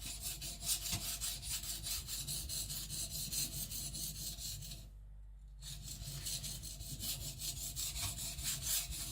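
Kiridashi blade scraped back and forth on a Japanese whetstone in quick, even rubbing strokes, with a short pause about five seconds in before the strokes resume.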